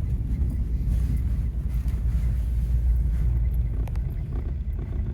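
A vehicle rolling along an unpaved dirt road with a steady low rumble and an occasional light knock.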